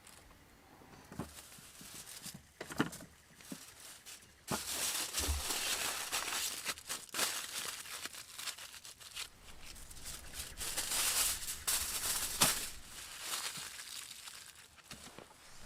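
A few scattered clicks and knocks, then from about four and a half seconds in a dense crinkling and rustling that comes in uneven bursts, with sharp clicks through it.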